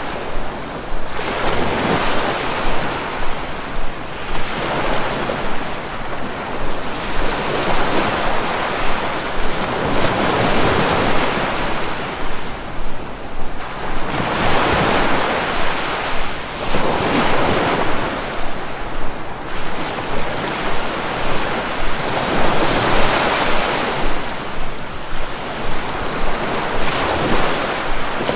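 Sea waves breaking and washing ashore: a continuous hiss of surf that swells and eases every few seconds.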